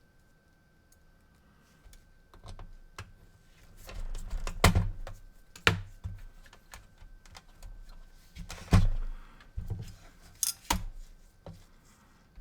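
Scattered clicks and knocks of PS4 console parts being handled and fitted during reassembly, starting after a couple of quiet seconds, with a few louder knocks midway.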